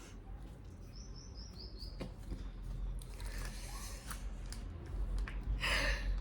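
Quiet room noise with a quick run of about five high, falling bird chirps about a second in. A short louder hiss of noise comes near the end.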